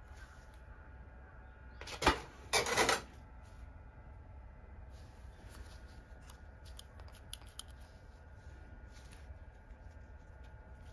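Handling noise from work with hands and tools: two brief clattering bursts about two seconds in, then faint scattered clicks.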